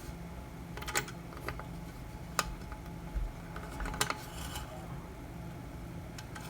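Scattered light clicks and taps, about half a dozen over several seconds, of small hand tools being picked up and handled, over a low steady hum.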